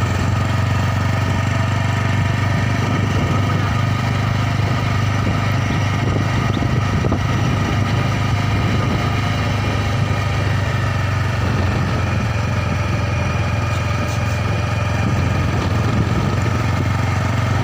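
Motorcycle engine running steadily at an even speed, with no rise or fall in revs.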